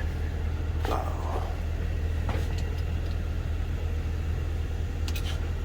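Steady low drone of an idling vehicle engine, with a few sharp clicks about one, two and five seconds in.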